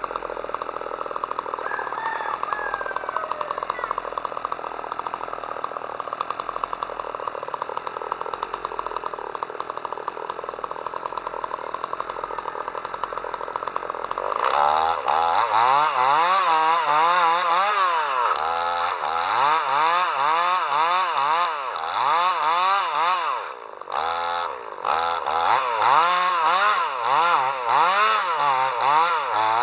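Two-stroke chainsaw running steadily, then from about halfway louder, its engine pitch rising and falling over and over as it revs and loads up in the cut.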